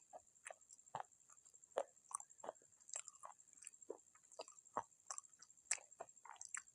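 Close-miked chewing and crunching of baked clay pot pieces: irregular, crisp crunches several times a second. A faint steady high-pitched tone runs behind them.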